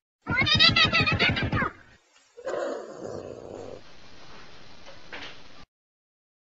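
A cat yowling loudly, one wavering call about a second and a half long. After a short pause, quieter and lower sounds follow, then stop suddenly.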